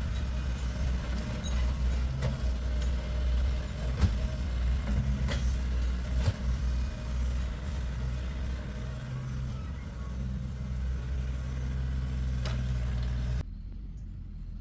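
A heavy vehicle engine running steadily at idle, with a low hum and a few sharp clicks or knocks from nearby work. Near the end the sound changes abruptly to a quieter engine hum.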